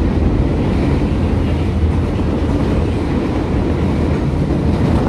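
Former JR 203-series electric commuter train running steadily, heard from inside the car by the door: a constant rumble of wheels on rail and running gear.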